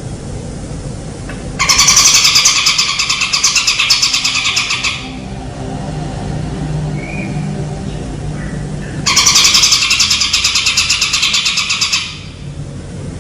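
A songbird sings two loud, buzzy rapid trills of fast-repeated notes, each lasting about three seconds. The first starts under two seconds in and the second about nine seconds in. A steady low hum runs underneath.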